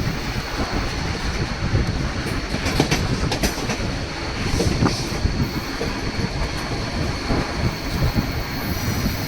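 White Pass & Yukon Route narrow-gauge train running along the track: a steady rumble of the moving cars with irregular clicks from the wheels on the rails.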